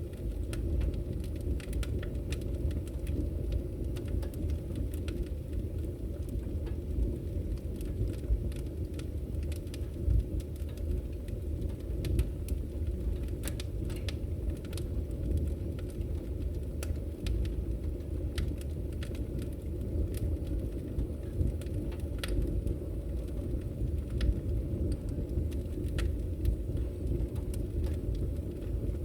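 Wood fire burning in a fireplace: logs crackling with frequent sharp pops over a steady low background noise.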